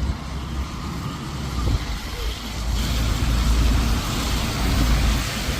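Road traffic passing close by: a heavy vehicle's engine rumble with tyre noise that swells about halfway through.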